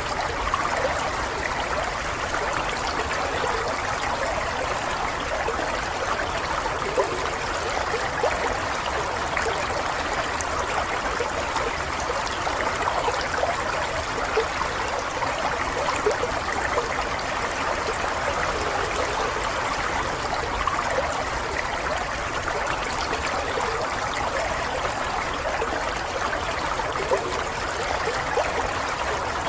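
Stream of running water trickling and babbling steadily, with small splashy flickers throughout.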